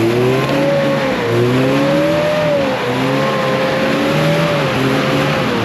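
Off-road 4x4's engine revving hard and held at high revs under heavy throttle during a hill climb, its pitch wavering up and down, then falling away near the end.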